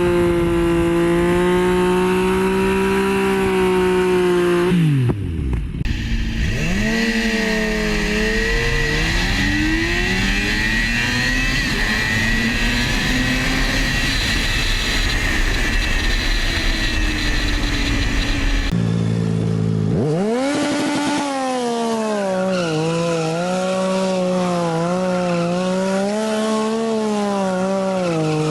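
Sportbike engines revving hard, the engine note rising and falling repeatedly, in several takes that change abruptly about five seconds in and again near nineteen seconds.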